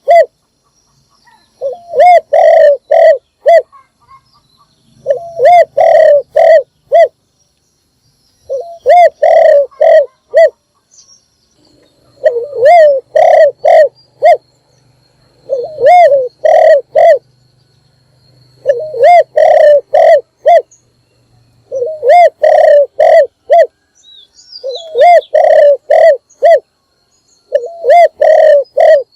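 Spotted dove cooing: a phrase of four or five low, evenly spaced coos, repeated about every three seconds.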